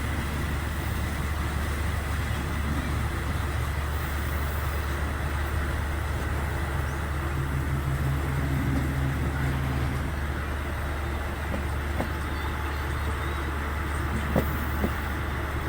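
Steady running rumble of a moving passenger train, heard from inside a third-class carriage. A low hum comes up for a few seconds in the middle, and a few sharp clicks come near the end.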